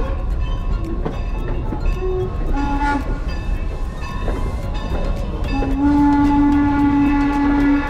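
Passenger train rolling along with a low rumble and regular clicking from the rails. The locomotive blows a short blast about two and a half seconds in and a longer, louder one of about two seconds near the end.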